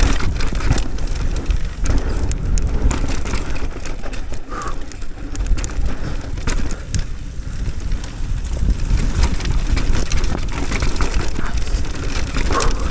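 Mountain bike descending a rough dirt trail. Wind buffets the microphone in a steady low rumble, and the tyres on dirt and rocks and the bike itself make frequent clattering knocks.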